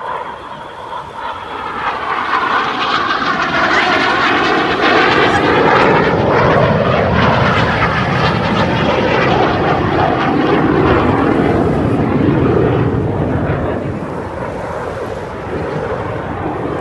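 Display aircraft flying low past at an air show: a loud engine roar builds over the first few seconds, falls steadily in pitch as the aircraft go by, then eases off near the end.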